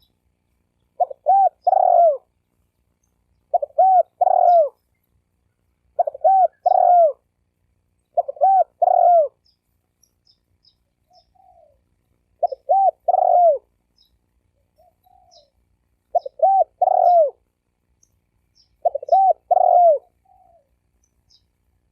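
Spotted dove cooing: a short phrase of three or four low, hooting notes, repeated seven times about every two and a half seconds, with a longer gap around the middle. Faint high chirps of small birds are heard between the phrases.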